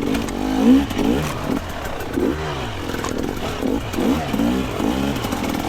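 Two-stroke dirt bike engine revving up and down in short throttle bursts, over and over, at trail-riding pace.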